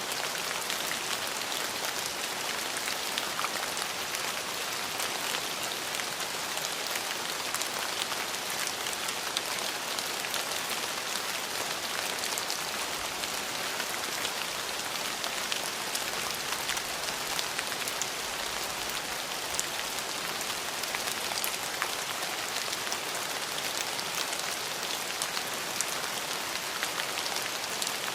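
Steady rain falling, a constant hiss dotted with many small ticks of individual drops.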